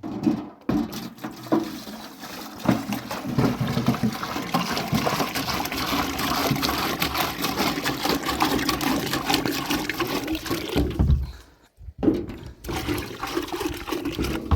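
Water gushing and splashing steadily, as when warm water is poured out for a bath. It stops for about a second near the end, then starts again.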